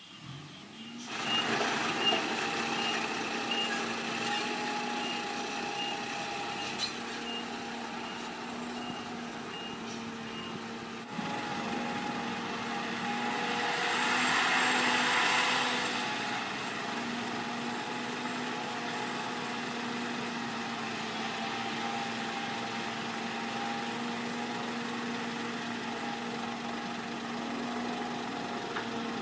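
Diesel engine of heavy earthmoving machinery running steadily, with a reversing alarm beeping at a steady rate through the first third. About halfway through, a rushing hiss swells and fades.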